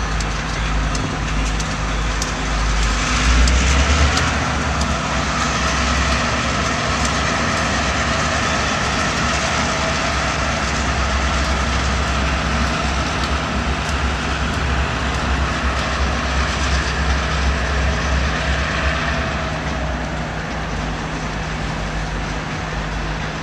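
Providence & Worcester diesel freight locomotives passing close by, a low engine rumble with a steady drone that is loudest about three to four seconds in. Freight cars follow, their wheels rolling on the rails, and the sound eases a little near the end.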